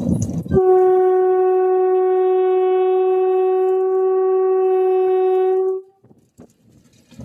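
One long horn-like blast held steady at a single pitch for about five seconds, starting abruptly and cutting off suddenly.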